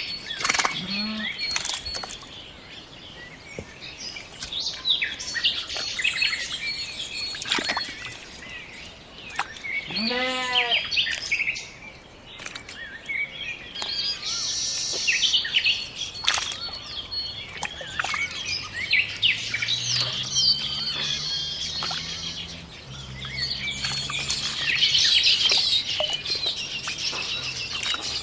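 Several birds chirping and calling, with quick repeated chirps and short trills. A faint low hum comes in for a few seconds after the middle.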